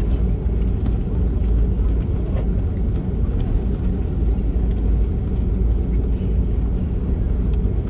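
Steady low rumble inside the cabin of an Airbus A330-300 on the ground before takeoff: its Rolls-Royce Trent 700 engines running at low thrust, with the airframe's rolling noise.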